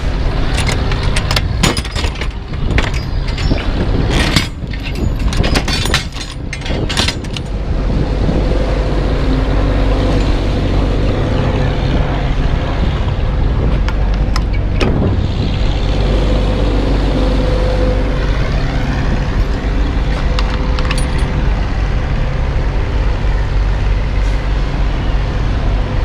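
Semi tractor's diesel engine running steadily, with a clatter of knocks and rattles over the first several seconds.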